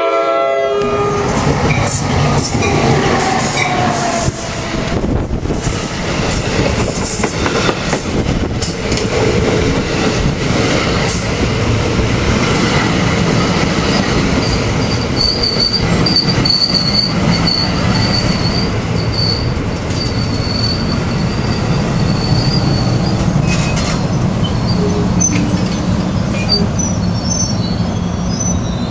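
NJ Transit electric passenger train of Multilevel coaches arriving and rolling past close by, with a steady loud rumble of wheels on the rails. The horn's blast cuts off just as it begins. From about halfway through, a thin high squeal comes and goes for several seconds as the train slows along the platform.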